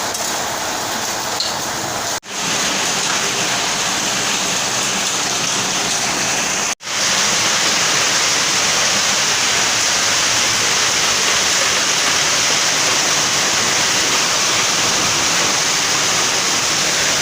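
Heavy rain with hail pouring down in a steady hiss. It cuts out for an instant twice, about two and seven seconds in, and is a little louder after the second break.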